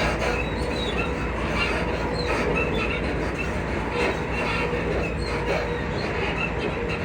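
Inside a Class 334 electric multiple unit running along the line: a steady rumble with a faint steady whine, and short high squeaks from the suspension scattered throughout.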